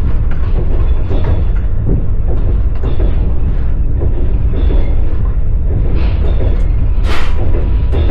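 Passenger train running, heard from inside the carriage: a heavy low rumble with an irregular clatter of wheels over the rail joints. About seven seconds in there is a short, louder rushing noise.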